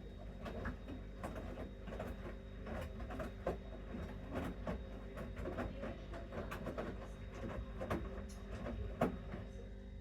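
Bosch Series 6 front-loading washing machine in its main wash: a steady motor hum as the drum turns, with irregular clicks, knocks and sloshes from the wet load tumbling inside.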